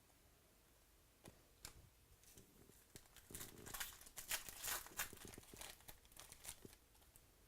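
Faint crinkling and rustling of trading-card packaging and cards being handled, with two light clicks at first and then a few seconds of scratchy crinkling.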